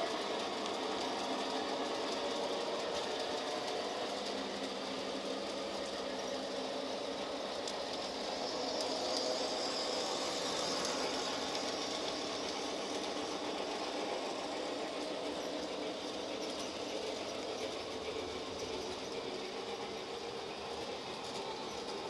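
Model trains running on a layout: a steady whir of small electric motors and wheels on track, swelling a little about halfway through.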